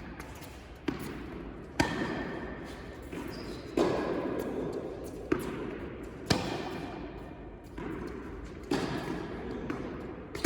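Tennis rally on an indoor court: a tennis ball struck by rackets and bouncing, six sharp knocks at irregular intervals of one to two seconds, each echoing in the hall.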